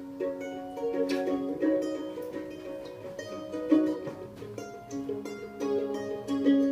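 Live band playing an instrumental passage without vocals, a plucked string instrument picking out quick notes and chords over the accompaniment.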